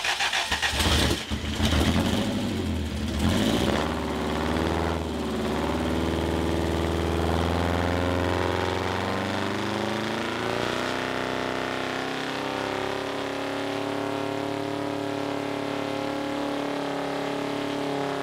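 Porsche four-cam air-cooled flat-four on an engine dyno, rough and uneven for the first few seconds as it catches, then running steadily with a wavering pitch that settles about ten seconds in.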